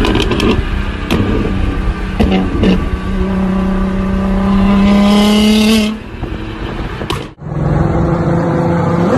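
Modified car's exhaust as the engine is revved, with a few sharp pops or cracks early on. The revs are held and slowly climb for about three seconds, then fall away; after a short break another engine runs.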